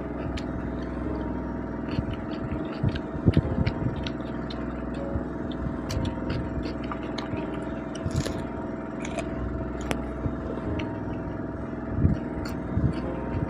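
Crunching and chewing of raw cucumber and onion, scattered sharp crackles, over a steady mechanical hum.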